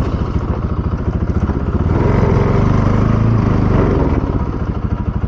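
Bajaj Pulsar NS200's single-cylinder engine running under way, its firing pulses steady, growing louder for a couple of seconds about two seconds in.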